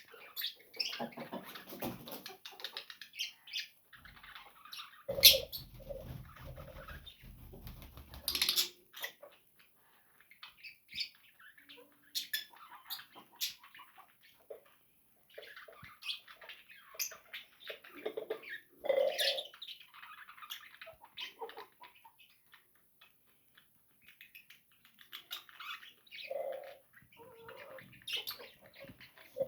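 Small caged parrots calling in short, scattered chirps and squawks, with wing flutters and light clicks and rustles, broken by brief quiet spells.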